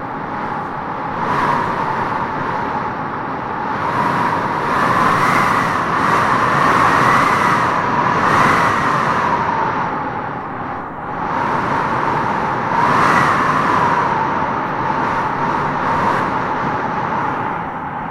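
Howling wind blowing in gusts, with a whistling tone that rises and falls as each gust swells and eases; the strongest gusts come in the middle and again about two thirds of the way in.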